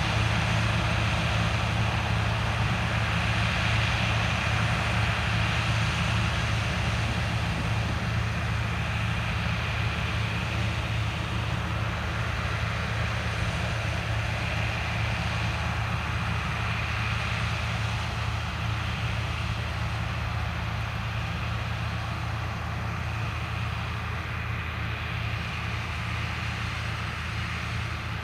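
Large diesel farm machinery running steadily during corn harvest, a continuous low engine drone that eases slightly quieter toward the end.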